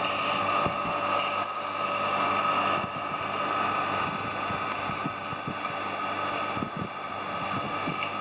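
Half-HP peripheral water pump's electric motor running steadily with a constant whine, its worn bearing renewed, so it runs quietly without the bearing noise. The pump is running dry, without water.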